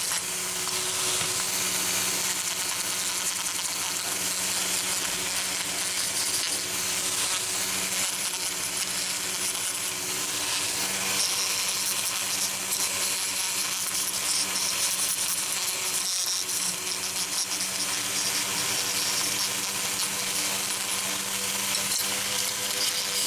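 A small power tool running steadily against metal: a constant motor hum under a dense, scratchy rasp that continues throughout.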